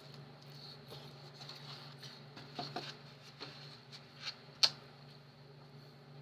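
Eating sounds: a scattering of small clicks and taps of utensils against a dish, the sharpest about four and a half seconds in, over a steady low hum of room noise.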